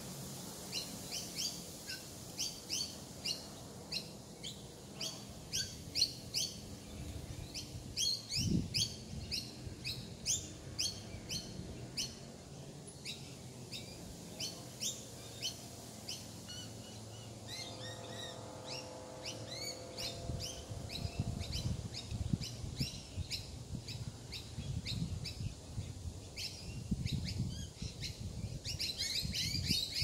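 Birds chirping: a steady series of short, high chirps, about one or two a second, over a faint low background rumble.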